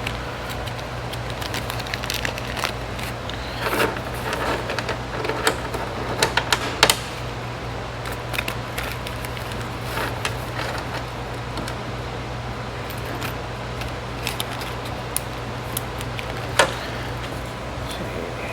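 Scattered light metallic clicks and clinks of small parts and hand tools, busiest from about 3.5 to 7 seconds in with one sharper click near the end, over a steady low hum.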